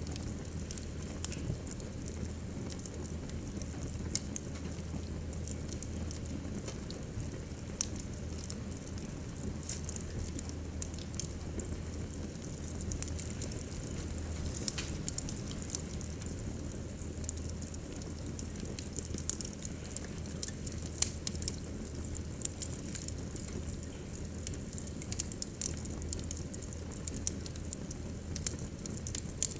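Wood fire burning in a fireplace, crackling and popping in scattered sharp snaps over a steady low rumble of flames.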